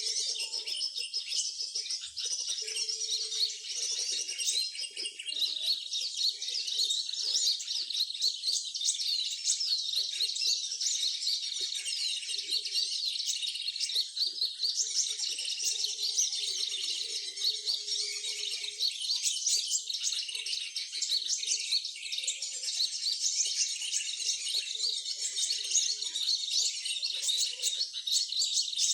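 Many small birds chirping and twittering together, a dense, continuous chorus of quick high-pitched notes.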